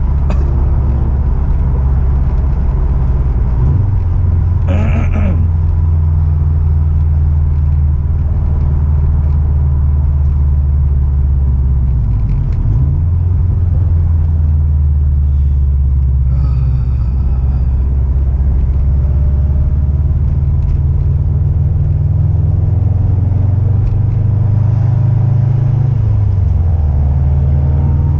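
A car's engine and road rumble run as a loud, steady low drone while driving, shifting in pitch a few times as engine speed changes.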